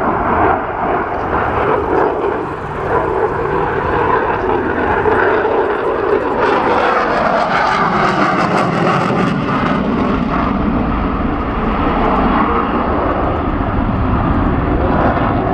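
Eurofighter Typhoon's twin jet engines during its display: loud, continuous jet noise that turns crackly from about six to nine seconds in, then deepens into a heavier low rumble.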